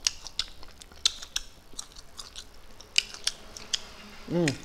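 Close-miked chewing of fried prawns: a scattered run of wet clicks and crunches from the mouth, with a short voiced 'mm' shortly before the end.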